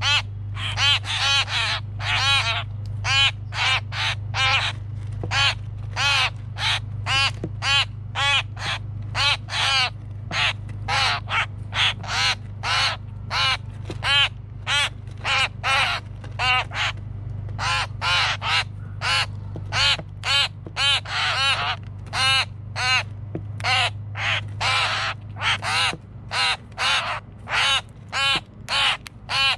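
Common grackle fledglings begging for food: a steady run of short, harsh, raspy calls, about two a second, over a steady low hum.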